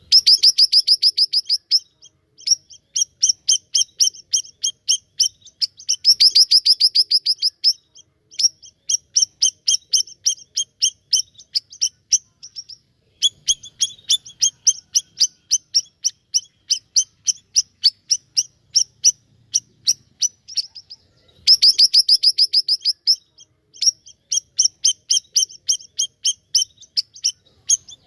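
A siri-siri (bayeman) songbird singing vigorously: rapid trains of sharp, high repeated notes, phrase after phrase, each a second to a few seconds long with short pauses between.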